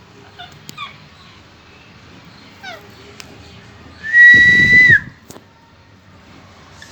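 Parrot making a few short chirps, then a loud, steady whistle about a second long that drops in pitch as it ends.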